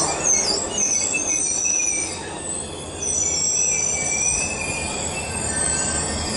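Caltrain gallery-car commuter train rolling past, its steel wheels squealing in several high, wavering tones over a low rumble of the cars.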